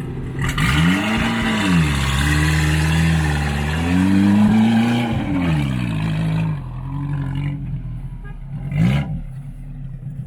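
Dacia car engine with an FI aftermarket exhaust revving hard, its pitch rising and falling several times, with a loud rushing noise over the first six seconds, then one more short rev near the end.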